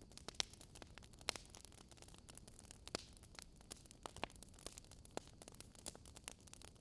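Wood fire crackling: irregular small sharp pops and snaps, a few louder than the rest, over a faint steady low hiss.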